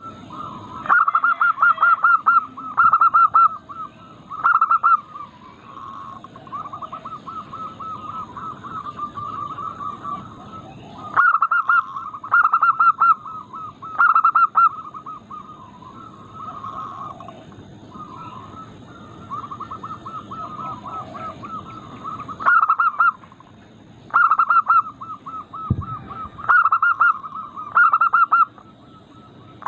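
Zebra doves (perkutut) singing: repeated loud bursts of rapid, stuttering coo notes, each burst about a second long, with softer runs of the same notes between them.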